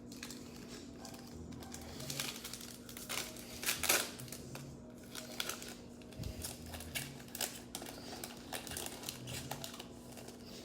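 Hands handling trading card packs and cards: irregular crinkling of pack wrappers and light clicks of cards being handled, over a faint steady hum.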